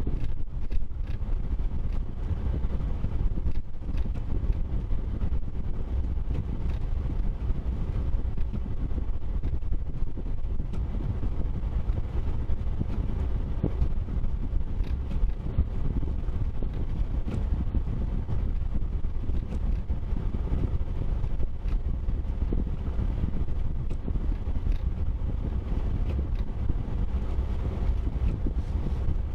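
Steady low rumble of a vehicle on the move, with a few faint ticks.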